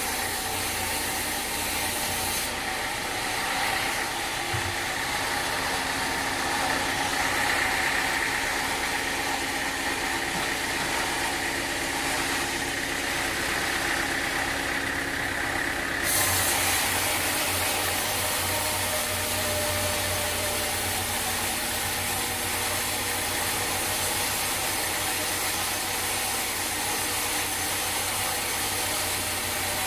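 Sawmill machinery running steadily: a motor's hum under a continuous hiss, changing abruptly about two seconds in and again about sixteen seconds in.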